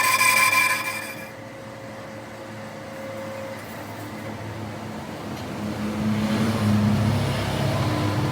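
A high-pitched screech of workshop machinery stops about a second in. A low mechanical hum follows and grows louder from about five seconds in.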